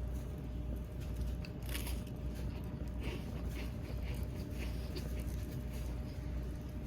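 Wood fire crackling, with irregular small pops and snaps over a steady low hum.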